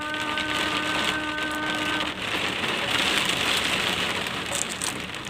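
Rain falling steadily, an even hiss. For the first two seconds a steady held tone sounds over it, then cuts off.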